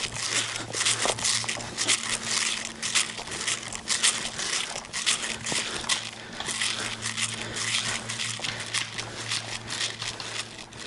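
Irregular rustling and crackling noise, a dense run of small crackles, over a steady low hum.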